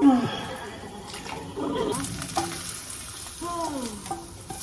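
Food sizzling in a frying pan while it is stirred, with scattered clicks and a few short squeaky sliding sounds from the utensil against the pan.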